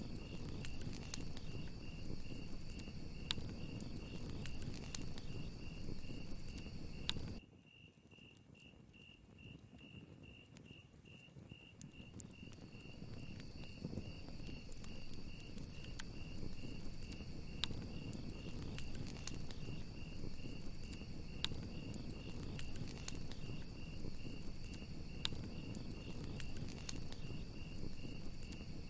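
Crickets chirping in a steady, even pulse over a crackling wood fire, with sharp pops and a low rush. About seven seconds in, the fire and a higher insect trill cut out abruptly, leaving only the cricket chirping. They build back gradually over the next several seconds.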